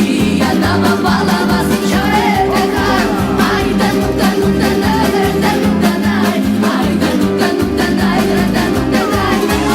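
Recorded pop song with a singing voice over a steady, regular beat, played as the music for a dance number.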